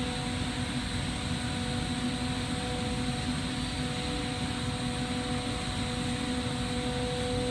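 Steady roar of a lampworking torch flame heating glass rod to pull stringers, with a steady hum underneath.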